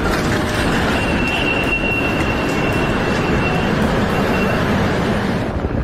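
Storm-force wind rushing loudly and steadily, buffeting the microphone, with a thin high whistle through the middle.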